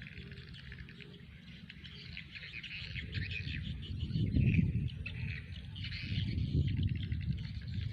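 Small birds chirping and twittering continuously, over a low rumble that swells and fades.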